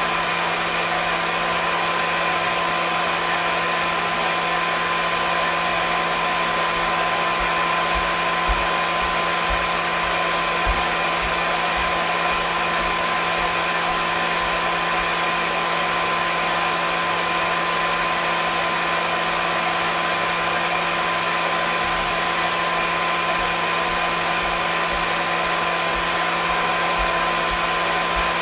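Hair dryer running steadily, a constant whooshing air noise with a steady motor hum underneath.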